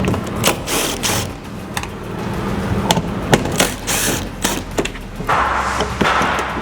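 Irregular clicks, knocks and short scrapes of plastic and metal parts as a van's door handle and its hardware are worked free and handled. A longer scraping rub comes about five seconds in.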